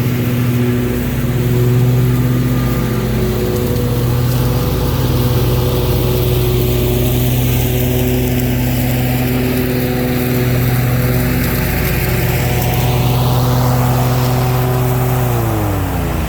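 Engine running at a steady speed, then falling in pitch near the end as it winds down.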